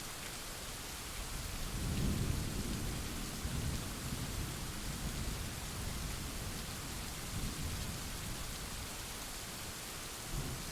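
Steady rain hissing, with a roll of thunder that swells about a second and a half in and rumbles on in waves for several seconds, then a brief low rumble near the end.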